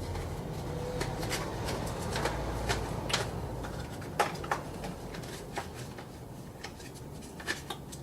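Scattered light plastic clicks and rustles as a new air filter is handled and pushed into the plastic frame of its housing.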